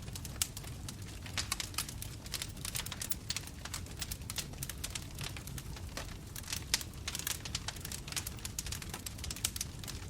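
Bonfire crackling: many sharp, irregular pops and snaps from the burning wood over a low, steady rush of the flames.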